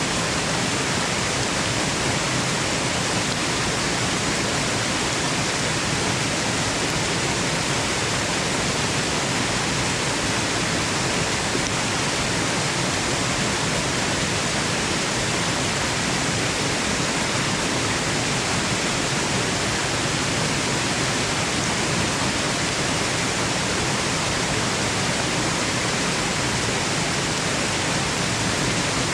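Waterfall noise: a steady, unchanging rush of falling water.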